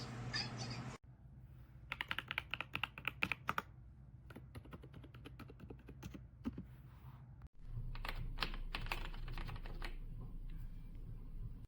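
Typing on a Royal Kludge S98 mechanical keyboard: a quick run of keystrokes about two seconds in, then slower, scattered key presses.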